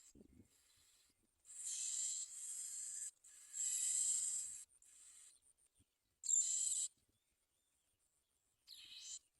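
Bar-winged prinia nestlings begging with high, hissing calls in four bursts of about a second each, each starting and stopping sharply.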